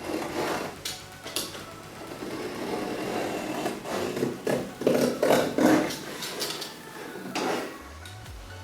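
Utility knife blade scraping along cardboard in irregular strokes, scoring a fold line, with short knocks from handling the box.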